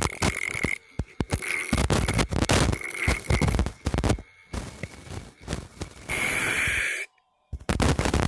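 Homemade grinder, a small CD-drive motor spinning an angle-grinder cutting disc, grinding against a steel screwdriver in short rasping bursts over a thin, steady high whine. The noise cuts out abruptly for about half a second near the seventh second, then starts again.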